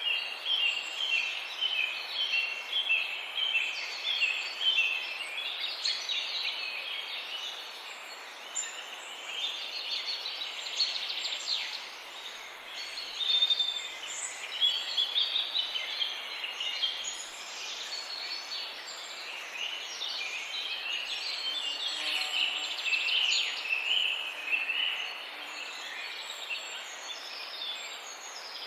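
Birds calling, many short chirps repeated rapidly and overlapping, over a steady background hiss.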